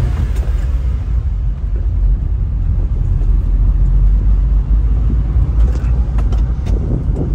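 Honda Acty kei truck driving, its engine and road noise making a steady low rumble, with a few sharp clicks or rattles in the second half.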